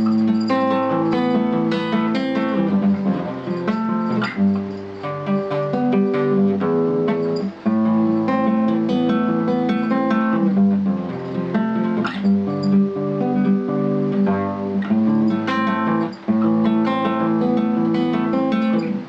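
Acoustic guitar strummed, playing the chords of a song being learned, with two brief breaks in the playing.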